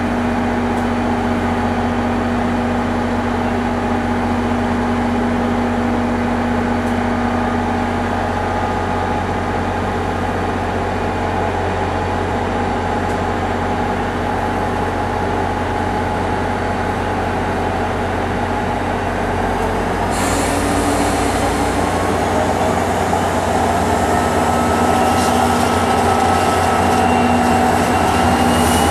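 Commuter train standing at the platform with a steady hum; about twenty seconds in a hiss starts, and near the end a whine rises in pitch as the train starts to pull away.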